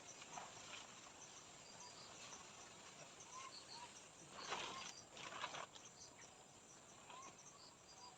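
Faint forest ambience of insects chirping in short, repeated high calls, with two brief louder noises about halfway through.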